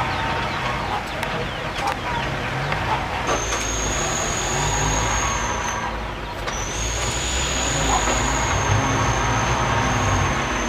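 Six-wheel dump truck's diesel engine running, its pitch rising and falling. A steady high-pitched whine comes in about three seconds in, stops briefly near the middle, then carries on.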